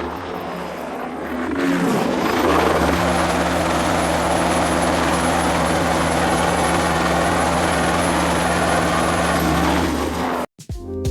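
Bell 206B-3 JetRanger III turbine helicopter flying close, growing louder over the first two seconds, then holding steady with a low rotor beat and a high turbine whine. It cuts off suddenly near the end.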